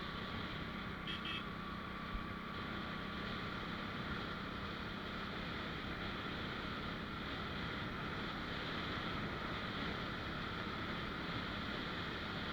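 Motorcycle running steadily on the move, with a constant engine hum and road and wind noise. A couple of short high-pitched beeps sound about a second in.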